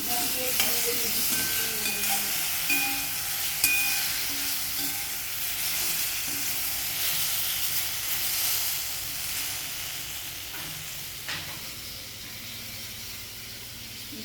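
Food sizzling in a frying pan on the stove, with a few light clicks of a utensil against the pan. The sizzle eases off in the second half.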